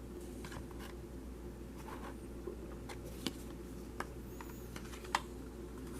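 Low steady electrical hum of background noise with a few faint, short clicks.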